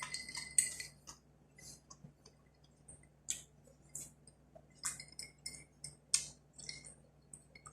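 Faint, scattered clicks and clinks of someone eating and handling tableware: about a dozen short, sharp sounds, unevenly spaced.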